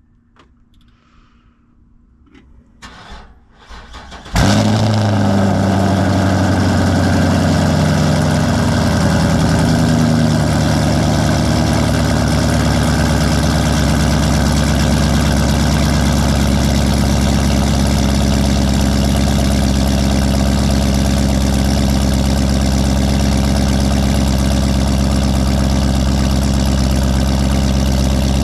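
Straight-piped Chevrolet Camaro V8 cold-started: after a few quiet seconds it fires about four seconds in with a loud flare. Its pitch falls over the next few seconds, and it settles into a steady, loud high cold idle.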